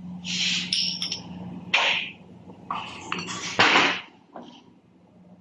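Metal gearbox parts clanking and scraping as they are handled and fitted, in short irregular bursts, over a steady low hum.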